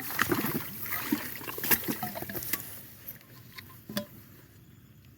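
Water sloshing and splashing, with scattered clicks and knocks, as an eel trap is handled in a flooded roadside ditch. It dies down about three seconds in, apart from one more knock near four seconds.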